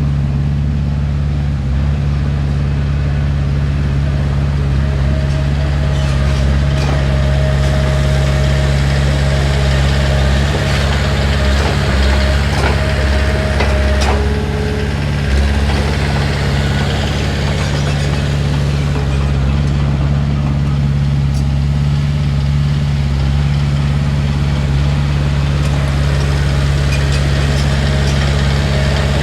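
Heavy earthmoving machine's diesel engine running steadily, with a faint higher whine for several seconds in the middle.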